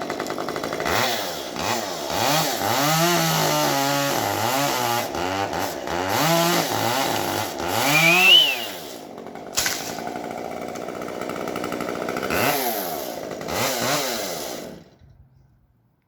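Gas chainsaw engine being revved up and down over and over, its pitch rising and falling with each squeeze of the throttle. It drops back briefly about halfway through, revs twice more, then stops abruptly near the end.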